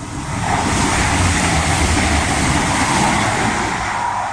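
Irish Rail InterCity Railcar (22000 Class diesel multiple unit) passing through the station at speed without stopping. A loud rush of wheels on rail and running gear swells about half a second in, holds for about four seconds, then fades as the train goes by.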